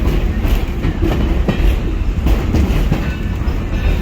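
Steam-hauled excursion train rolling along the track, heard from a passenger car: a steady low rumble with uneven clacks and knocks of the wheels over the rails.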